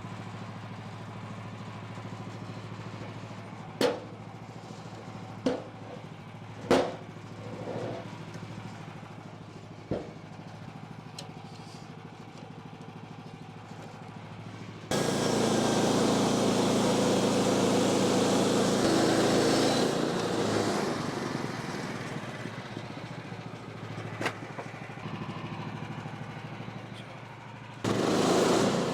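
An engine running steadily at low speed, with several sharp knocks in the first half. About halfway it suddenly gets much louder and harder-working, eases back some seconds later, and rises again near the end.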